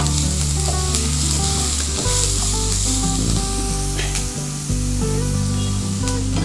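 Onions frying in oil in a kadhai, a steady sizzle, while being stirred with a spatula. Background music with sustained low notes plays under it.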